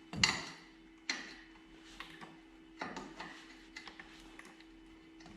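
Hammer blows on the steel steering knuckle, four sharp ringing metallic strikes about a second apart, the first the loudest, knocking the ball joint tapers loose.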